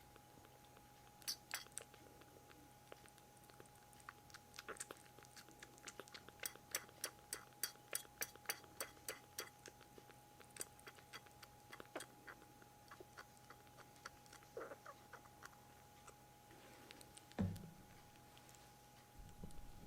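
Kitten drinking milk: soft, wet clicking mouth sounds, coming in a steady run of about four a second in the middle, over a faint steady hum. A single louder thump near the end.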